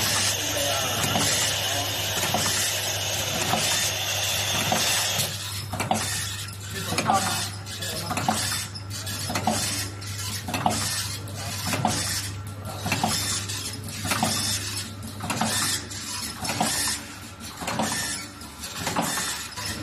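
A PVA pod-making machine running, forming and sealing powder dishwasher capsules in water-soluble film, with a steady hum underneath. A steady hiss for the first five seconds gives way to repeated mechanical clacks and clatter from the machine's cycling parts.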